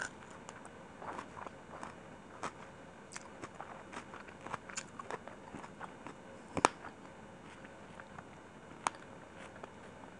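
Close-miked eating: biting into a raw green chili, then chewing, with many short sharp crunches and mouth clicks; the loudest snap comes about two-thirds of the way through.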